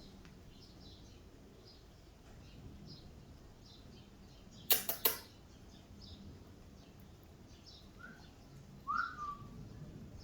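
Faint bird chirps repeating in the background. Two sharp clicks close together about halfway through, and a short whistled note near the end.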